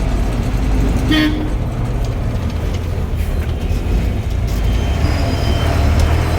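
Ashok Leyland bus running on the road with a steady low drivetrain and engine drone, free of any differential whine because its crown and pinion have just been reset. A short horn toot sounds about a second in.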